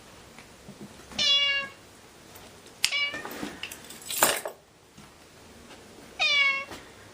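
Domestic cat meowing three times, each meow about half a second long. A short noisy burst comes between the second and third meow.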